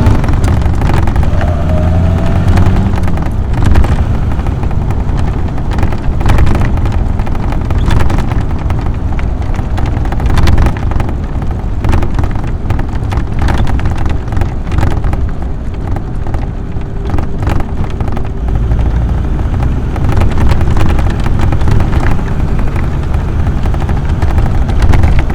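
AC Buckland's 2-litre six-cylinder engine pulling on the road, heard from on board the open tourer, with wind and road noise and frequent rattles and knocks. The engine note rises in the first couple of seconds as the car accelerates, then holds steady.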